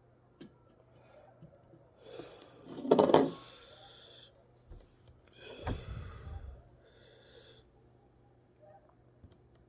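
Breathy sounds from a person close to the microphone: a loud one about three seconds in and two softer ones later.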